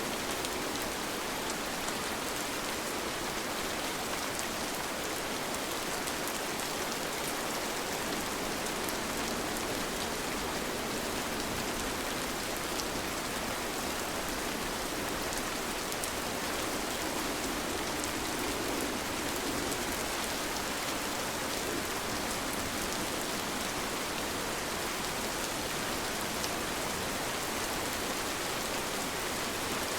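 Steady rain falling: an even, dense hiss with faint individual drop ticks through it.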